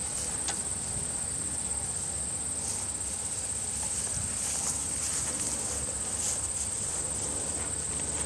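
Insect chorus: a steady, high-pitched trill of crickets.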